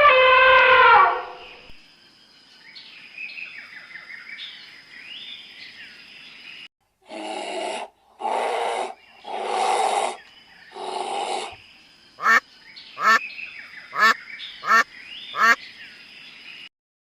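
A sequence of animal calls: a long pitched call ending about a second in, faint chirping with a steady high whine, then four harsh calls about a second apart, then five short sharp calls.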